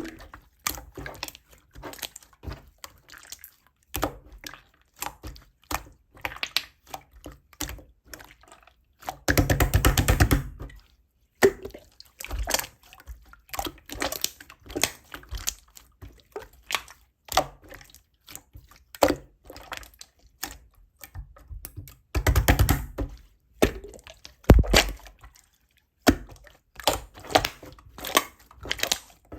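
Slime being squished and worked by hand: a steady run of wet clicks and small pops, with two longer stretches of dense, rapid crackling about a third of the way in and again about three quarters through.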